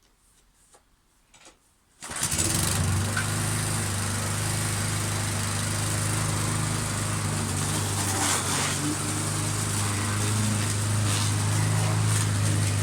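Petrol lawn mower engine running steadily with a low, even hum, cutting in suddenly about two seconds in after a few faint clicks.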